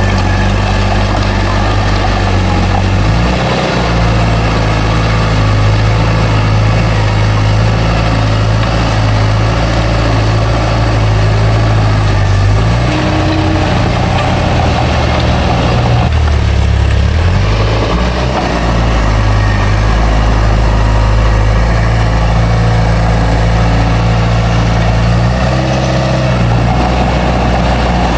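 Bulldozer's heavy diesel engine running steadily as it works, its speed shifting up and down a few times, with a longer drop in pitch near the middle.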